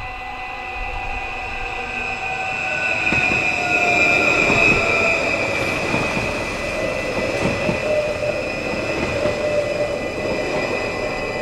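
NS Sprinter electric train passing over a level crossing, its wheels running on the rails, loudest about four to five seconds in. A high whine drops slightly in pitch as it goes by.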